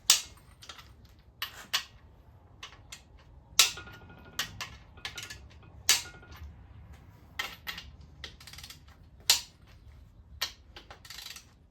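Husky click-type torque wrench ratcheting and clicking on an engine's crankshaft main bearing cap bolts as they are torqued to 70 foot-pounds: a series of sharp metallic clicks at an uneven pace, with a short ratcheting rattle near the middle.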